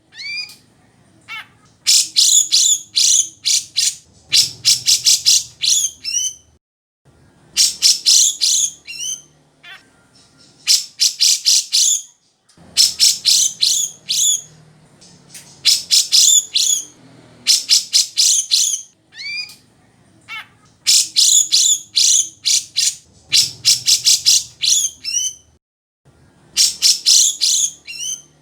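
Grey-cheeked bulbul (cucak jenggot) singing: loud phrases of rapid, high chattering notes, several ending in short sweeping whistles, repeated every two to three seconds with brief pauses between.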